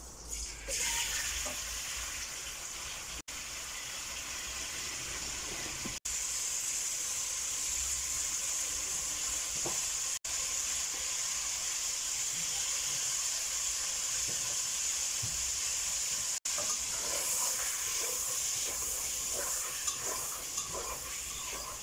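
Chicken pieces sizzling in melted butter in a nonstick pot, a steady frying hiss that starts just after the chicken goes in and cuts out for an instant a few times. Near the end, a utensil stirs the chicken, with light clicks and scrapes against the pot.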